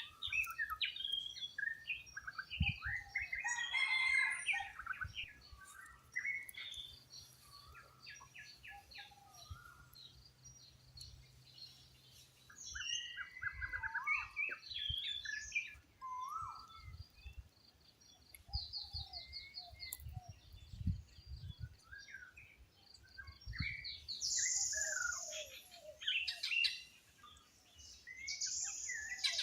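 Several wild birds calling at once: many short chirps, down-slurred whistled notes and rapid trills, coming in bursts with brief quieter spells.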